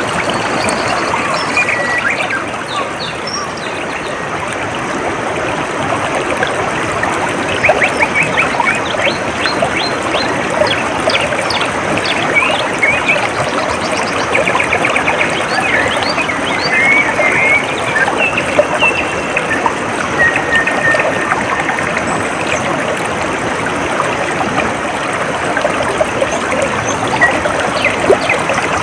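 Water trickling steadily in a small stream, with birds chirping in short calls and quick trills over it, most often in the middle stretch.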